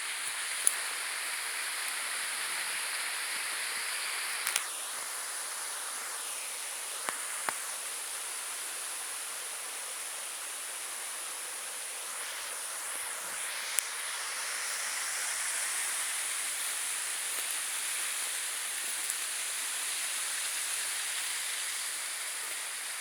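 Steady rush of running water, with a few short sharp clicks over it.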